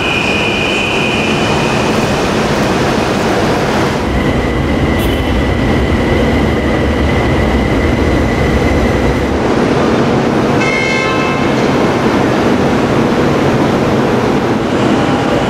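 Steady rumble and hum of a high-speed train standing at a station platform, with a brief electronic beep about eleven seconds in.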